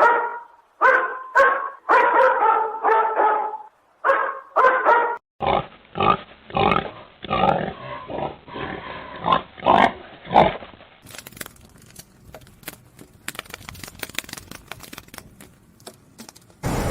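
Animal calls in short edited segments: repeated short pitched barks for the first five seconds or so, then a stretch of rougher, noisier grunting calls, then faint scattered clicks.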